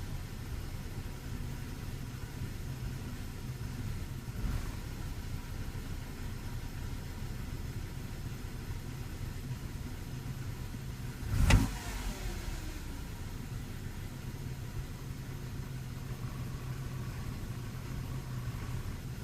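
BMW 316ti Compact's N42 B18 1.8-litre four-cylinder idling roughly; the car has a stored lambda mixture-adaptation fault ('LR-adaptation additive per time'). A sharp knock about eleven seconds in, and a smaller one near four seconds.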